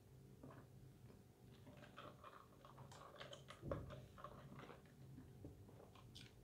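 Faint close-up chewing of a bitten burger: soft wet mouth clicks and crackles, with one low thump a little past halfway.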